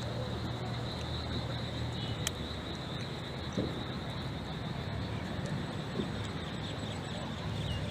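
Floodwater rushing steadily past the house, a continuous even rush of noise, with a steady high-pitched whine over it.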